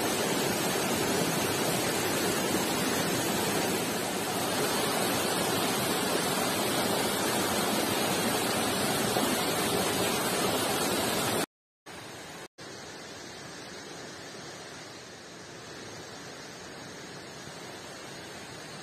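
Stream water rushing, a steady even noise; about two-thirds of the way through it cuts out for a moment, then carries on noticeably quieter.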